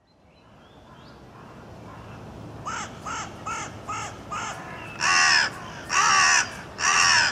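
A bird calling harshly: five short calls in quick succession, then three longer, louder calls about a second apart.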